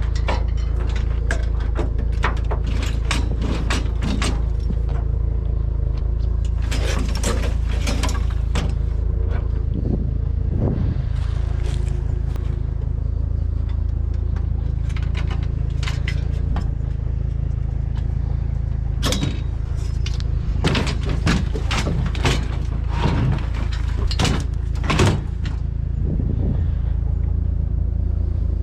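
Pickup truck engine running steadily, with many short clicks and knocks over it, bunched in two spells.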